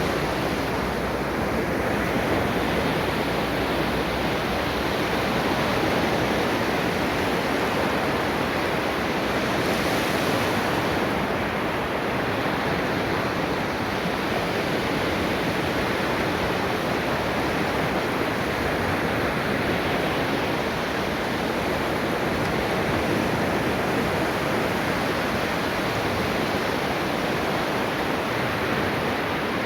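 Ocean waves washing onto a beach in a continuous, steady rush of surf, swelling and easing gently.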